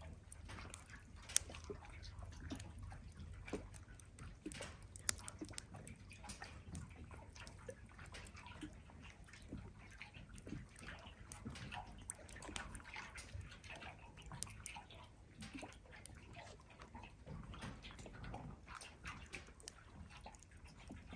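Wood campfire crackling with many small sharp pops, two louder ones about a second and five seconds in, over small waves lapping at the shore.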